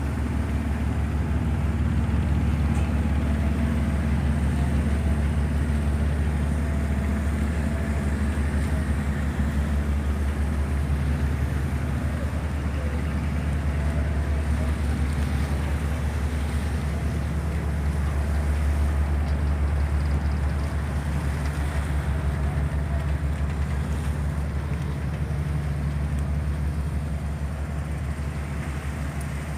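Engine of a wooden Amazon river passenger motor ship running steadily underway, a low, even drone with a steady rushing noise over it.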